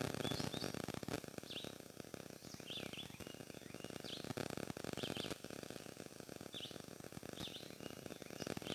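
Wild birds singing in the morning: short chirping calls repeated about once a second, some with quick downward slurs, over a low steady background noise.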